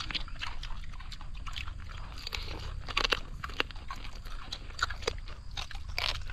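Close-up crunching and chewing as a man bites into crisp fried rice-field rat, with irregular sharp crunches, a few louder ones around three seconds in and near the end, over a steady low rumble.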